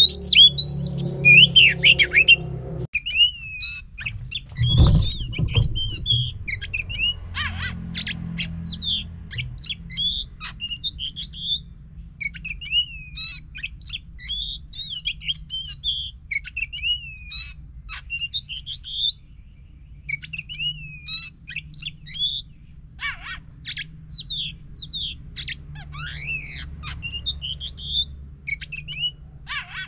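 Oriental magpie-robin (kacer) singing a continuous, lively song of rapid varied whistles, chirps and harsh squawky notes, the kind of full song played as a lure to set a silent kacer singing. A low hum runs underneath, with a dull thump about five seconds in.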